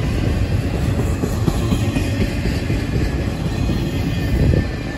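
Intermodal freight train's container and trailer cars rolling past: a steady rumble of steel wheels on the rails with continuous rapid clatter.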